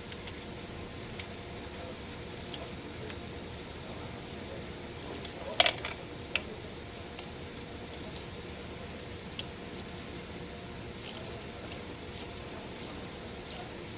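Scattered metal clinks and rattles of hand tools, a socket set being handled, with the sharpest clink about five and a half seconds in.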